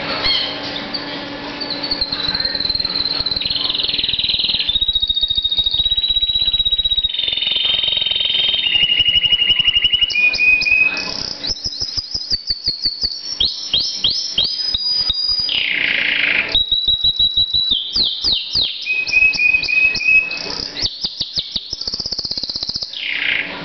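Domestic canary singing loudly and at length: a long song of rapid trills, held high whistled notes and fast runs of repeated notes, changing from one phrase to the next every second or two.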